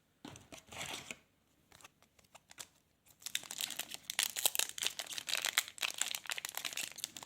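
Foil wrapper of a trading card pack being crinkled and torn open: a few short rustles at first, then dense crackling from about three seconds in.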